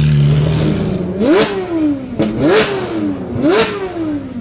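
Ferrari 458's naturally aspirated V8 through an aftermarket iPE exhaust, revved while standing still. After about a second of steady running, the engine is blipped three times, about a second apart; each rev climbs sharply and then falls back.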